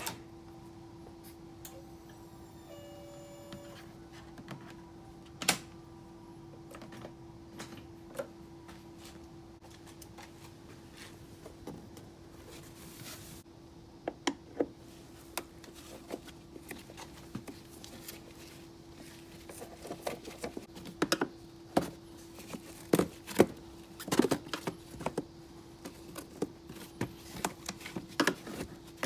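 Scattered clicks, taps and knocks of tools and small parts being handled, sparse at first and much busier in the second half, over a steady low hum.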